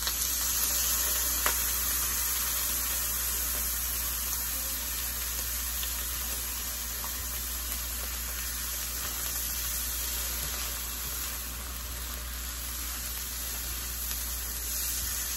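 Drained canned mixed vegetables and scrambled egg sizzling in a hot frying pan: a steady hiss that eases a little after the first seconds.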